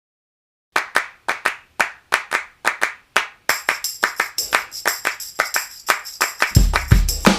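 Background music starting up after a short silence: rhythmic hand claps, joined about halfway by a jingling tambourine and near the end by a kick drum.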